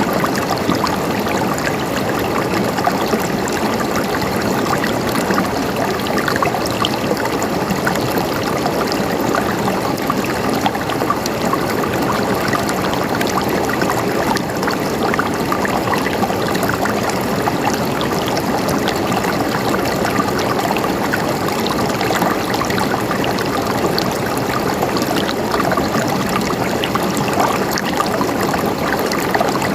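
Running water flowing steadily, an even trickling and gurgling with many small splashes.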